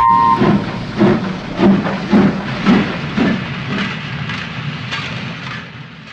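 Steam locomotive sound effect: a two-note whistle cuts off just after the start, then the engine chuffs away at about two beats a second over a steady hiss of steam, the chuffs fading toward the end.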